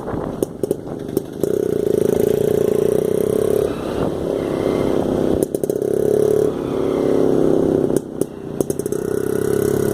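Jawa motorcycle engine running as the bike is ridden, the throttle closing and reopening several times, with short clattering knocks in the gaps.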